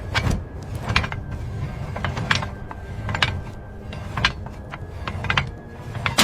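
Metal clanks and clicks from tools working on heavy machinery parts, about one a second and some in pairs, over a low mechanical rumble, ending on a loud hit.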